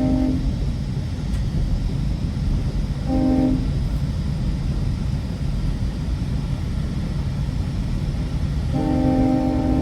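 GO Transit train horn on cab car 257, heard from inside the moving train over the steady rumble of the wheels on the rails. A long blast of its several-note chord ends just after the start, a short blast comes about three seconds in, and another long blast begins near the end.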